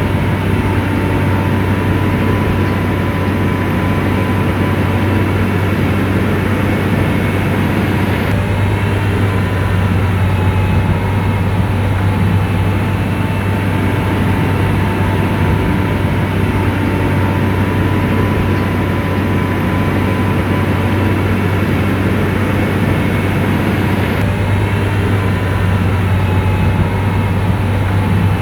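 SDLG motor grader's diesel engine running steadily under load, a deep even drone with a thin steady whine above it.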